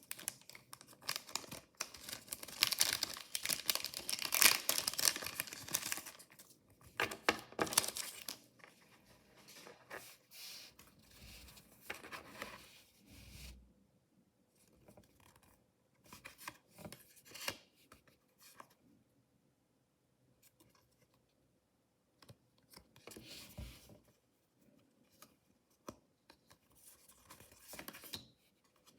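Mystery toy packaging being torn open and crinkled for about the first six seconds, then scattered short rustles of handling with quiet gaps between.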